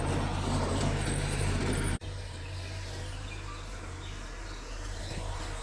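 Mitsubishi bulldozer's diesel engine running steadily. The sound drops suddenly about two seconds in and carries on quieter.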